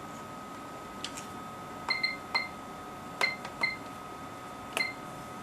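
Sharp metallic clicks and clinks, about six of them, several with a brief high ring, from small metal tools or parts being handled. A faint steady high-pitched whine runs underneath.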